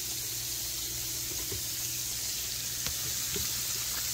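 Flour-coated pork chops frying in hot grease in a cast-iron skillet: a steady sizzle with a few faint pops.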